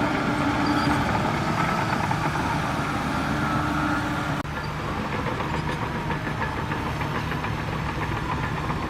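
Heavy diesel engine of earthmoving machinery running steadily with a clattering note. About four and a half seconds in the sound breaks off abruptly and carries on a little quieter.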